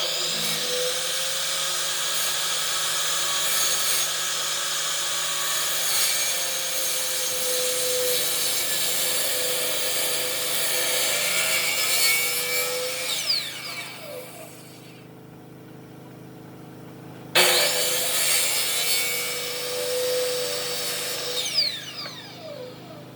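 An electric power tool working wood in two runs, each ending as the motor is switched off and its whine falls away; the second run starts abruptly about 17 seconds in, after a quieter pause.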